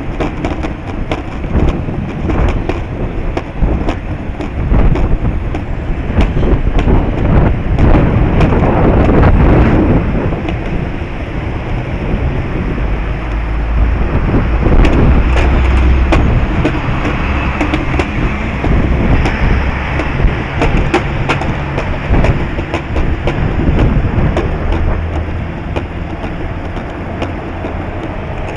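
Strong wind buffeting the microphone: a loud low rumble that surges and eases, with many small crackles and clicks.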